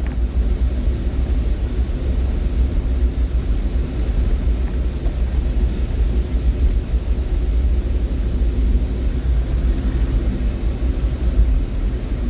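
Steady low rumble of a vehicle running, with faint steady tones and an even hiss above it and no breaks.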